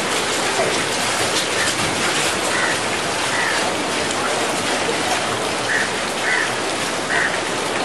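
Steady rain falling, an even hiss with no pauses. A few short, faint chirps sound now and then over it in the second half.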